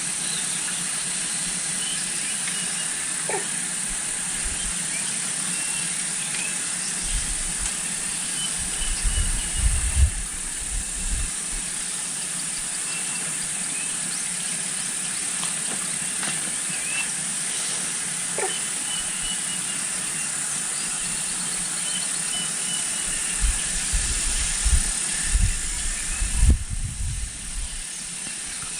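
Outdoor rural ambience: a steady hiss with faint, scattered high chirps. Twice there is a stretch of a few seconds of low, uneven rumbling thumps, like wind buffeting or handling of the microphone.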